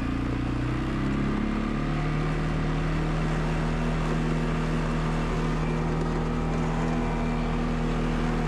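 ATV engine running, its pitch stepping up during the first two seconds and then holding steady.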